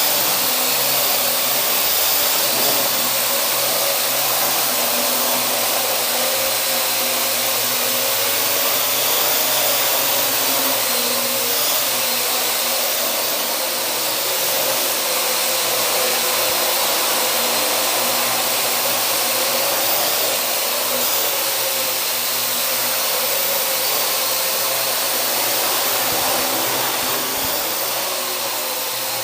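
Parrot AR.Drone quadcopter's four rotors whirring steadily in flight, the pitch wavering slightly as the motor speeds shift while it manoeuvres.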